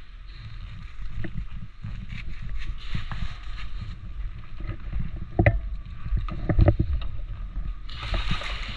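Low rumbling movement and handling noise, with a few sharp knocks about five and a half and six and a half seconds in.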